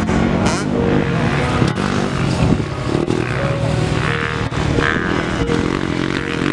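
Several motocross motorcycle engines running together on a dirt track, their pitch rising and falling as the riders rev and shift.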